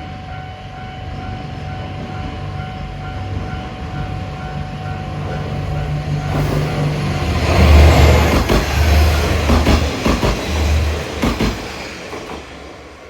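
A level-crossing warning bell rings as a diesel railcar comes up and passes over the crossing. The engine note and the wheels clacking over the rail joints are loudest about eight seconds in, then fade away.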